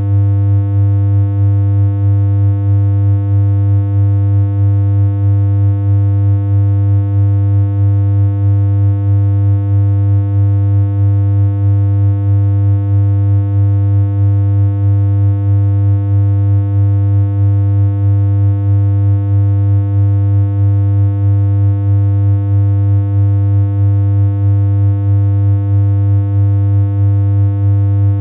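Continuous synthesized electronic hum: one low, buzzy tone held at an unchanging pitch, with a slight even pulsing in loudness.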